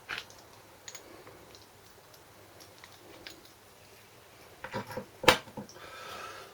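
Scattered small clicks and taps of hand tools and metal engine parts being handled during a small-engine teardown. A few quick knocks come about four and a half seconds in, followed by one sharp click.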